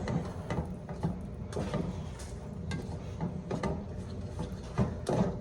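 A spoon stirring noodles and meat in a cooking pot, making irregular scrapes and knocks against the pot.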